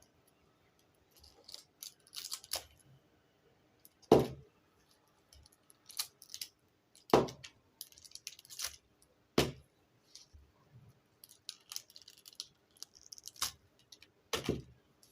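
Pineapple pups (crownlets) being tugged and snapped off the fruit by hand: four sharp crisp snaps a few seconds apart, among lighter crackling and rustling of the stiff leaves.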